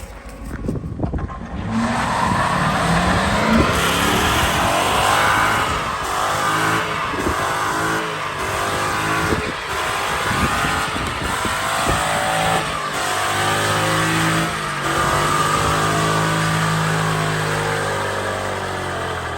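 Car engine held at high revs in a burnout, with tyre squeal throughout. The revs climb over the first seconds, then hold steady with short regular dips. Near the end the engine dies away as it locks up.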